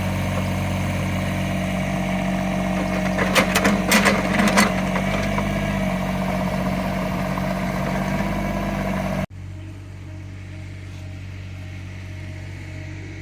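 Small CAT excavator's diesel engine running steadily, with a quick cluster of sharp clanks about three to four seconds in. The sound cuts off abruptly about nine seconds in and resumes as a quieter steady engine hum.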